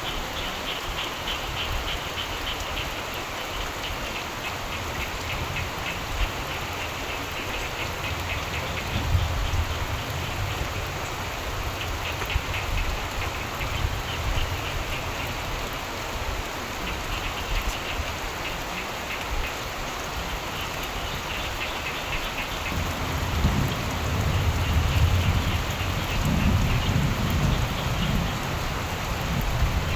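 Steady rain with frogs calling in repeated trilled bouts, and a low rumble of thunder building in the last several seconds.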